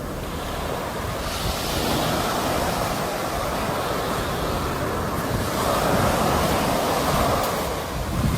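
Sea waves breaking and washing onto the shore, the surf swelling twice and easing back in between.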